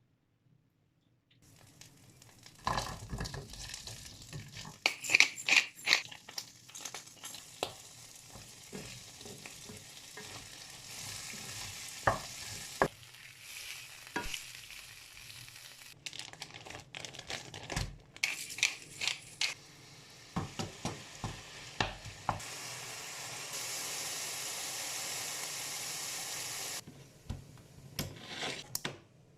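Food sizzling in an oiled frying pan while being stirred, with frequent clicks and scrapes of a utensil against the pan. It starts after a second or so of near silence and comes in several short stretches, with the hiss steadiest and loudest late on.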